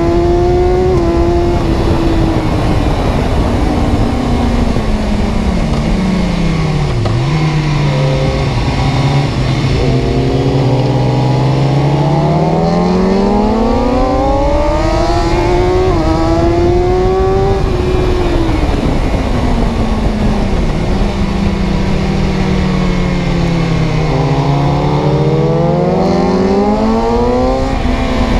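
Car engine running under load, its pitch sweeping down and up again several times as it slows and accelerates, with a few short jumps in pitch like gear changes.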